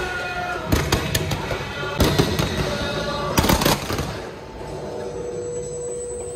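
Fireworks and firecrackers going off in rapid, uneven bursts of bangs, thinning out after about four seconds, with music playing underneath.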